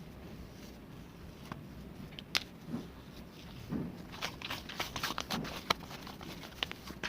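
Scattered small clicks and soft taps, becoming a quick, dense run of clicks from about halfway through.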